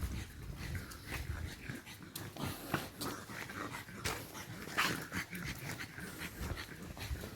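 Dogs sniffing and snuffling at the ground: short, irregular snorts and breaths.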